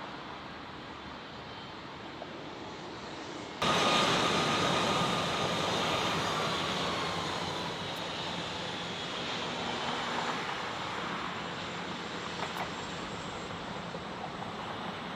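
A low steady rumble, then about four seconds in the sound jumps suddenly louder to a jet airliner's engines, a roar with a whine that slowly falls in pitch as the aircraft passes.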